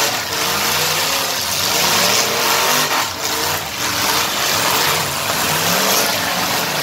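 Several demolition derby car and truck engines revving and running hard. Their pitch rises and falls over a dense, steady wash of noise.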